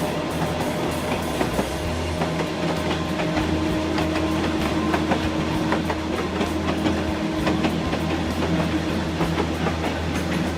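Kurobe Gorge Railway trolley train running on its narrow-gauge track: a steady rumble of wheels on rail with rapid clicks and rattles.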